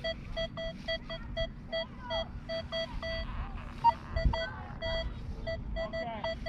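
Metal detector beeping: a rapid string of short beeps at one pitch, about five a second, as it sounds off over a target.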